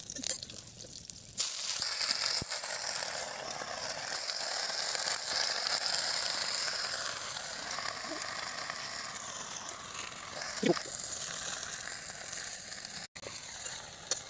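Malabar spinach leaves hit hot oil and frying green chillies in a metal wok. A sudden loud sizzle begins about a second and a half in and carries on as a steady hiss that slowly eases. Before it, lighter clinks of a spatula come over the chillies frying.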